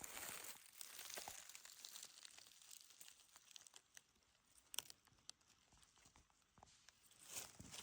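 Faint rustling and crackling of dry forest-floor litter such as leaves and twigs, with scattered small snaps and one sharper click about five seconds in.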